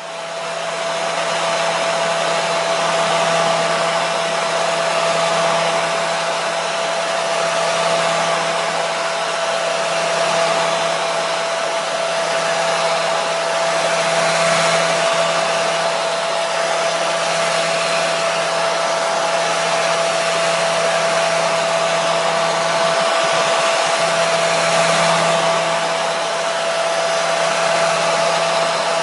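Hair dryer running steadily: a constant rushing blow with a steady whine and a low motor hum. It rises to full level in the first couple of seconds.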